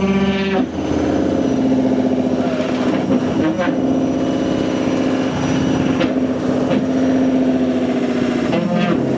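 AEG washing machine motor straining through the spin with a fully loaded drum: a loud, groaning drone whose pitch shifts every few seconds. It is the sound of a motor that is going faulty.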